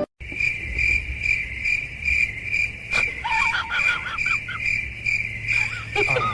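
Insects, cricket-like, chirping in a steady pulsing rhythm, about two to three chirps a second. Short wavering cries break in about three seconds in and again near the end.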